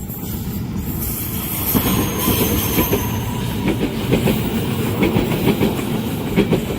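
Train passing close by at speed, its wheels clattering over the rail joints in repeated knocks over a steady rumble, with a faint high squeal of wheels on the curved track.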